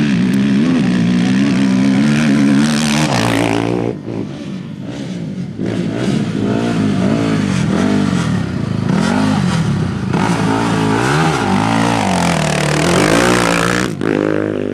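Off-road racing motorcycle engines passing close and revving hard, the pitch rising and falling with throttle and gear changes. The loudest passes come about three seconds in and again near the end.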